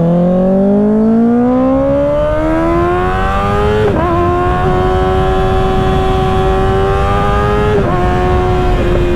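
Kawasaki Ninja ZX-6R 636's inline-four engine with an aftermarket M4 exhaust, rising in pitch under acceleration for about four seconds. It shifts up and then holds a steady cruising note, with another brief shift near the end.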